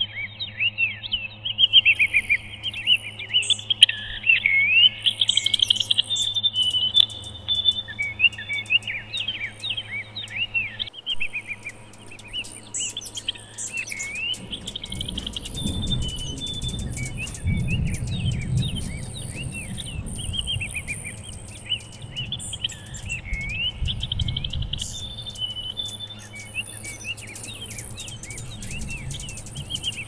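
Small birds chirping and twittering in a dense run of quick, high, swooping notes over a steady low hum. A low rumble comes in about halfway through and fades after about ten seconds.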